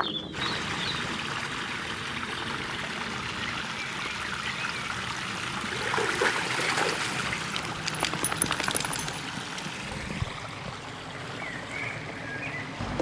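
Water flowing and trickling in a small stream, a steady rushing sound that starts abruptly just after the beginning.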